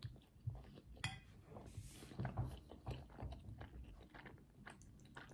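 Faint chewing with small wet mouth sounds, along with a few light clicks of a metal fork against a plate.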